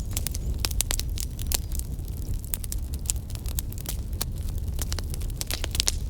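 Wood fire burning in a fireplace, with irregular sharp crackles and pops over a low steady rumble.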